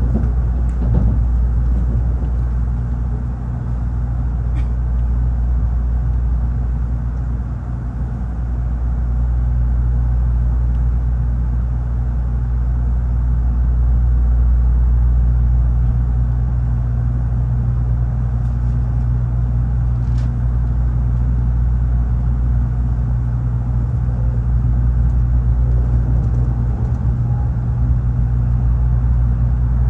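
Tokaido Shinkansen bullet train running along the line, heard from inside the passenger cabin as a steady low rumble. Two faint ticks sound briefly partway through.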